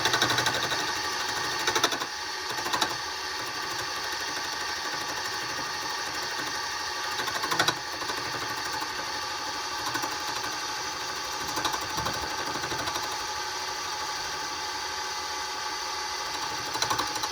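Wood lathe running, with a wooden blank spinning while it is being turned, a steady machine hum with a fine rapid rhythm. A few short sharp knocks come in, a couple near the start, one near the middle and one later.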